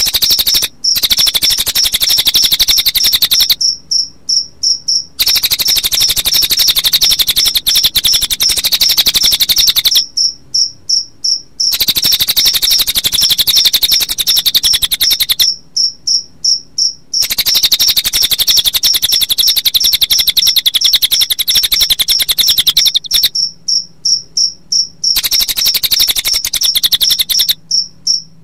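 Recorded cricket trilling combined with cililin bird song, played as a songbird training track. A fast, high, pulsing trill runs in long stretches, broken every few seconds by short gaps of about five separate chirps.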